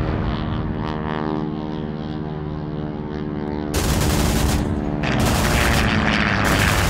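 Propeller fighter engine droning steadily, then bursts of rapid machine-gun fire starting about four seconds in, with a short break before a longer burst.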